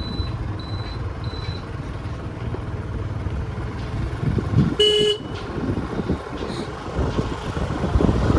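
Low rumble of motor vehicle engines running, with three short high electronic beeps in the first second and a half and one short vehicle horn toot about five seconds in.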